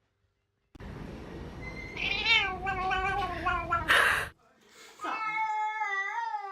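Cat meowing: a long, wavering meow about two seconds in over a noisy background, cut by a brief loud noise, then after a short gap a second drawn-out, wavering meow.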